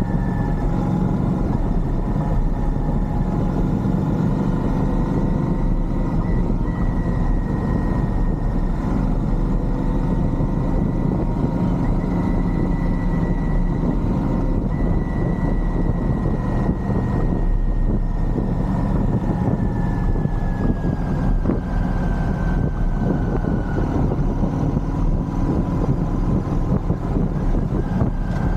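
Royal Enfield Shotgun 650's parallel-twin engine running steadily while riding, over a constant low rush of wind and road noise. The engine note sags slowly past the middle, then sits higher again near the end.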